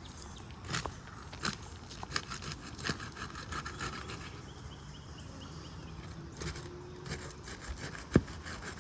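Flat pry bar worked under asphalt shingles, scraping and rubbing as it breaks the adhesive tar seal strips, with a few taps and one sharp knock near the end.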